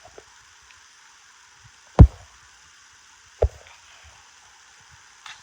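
Two dull thumps about a second and a half apart over the steady hiss of a flowing river; the first is the louder.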